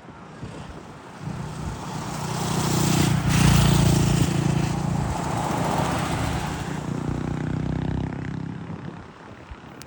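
Airbus H125 helicopter's rotor and single turbine engine passing: the sound builds over about two seconds, stays loud for several seconds, then fades away near the end as the helicopter departs after takeoff.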